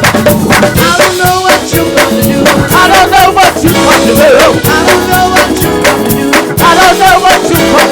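Live gospel praise band playing with drum kit and singing voices, a steady driving beat.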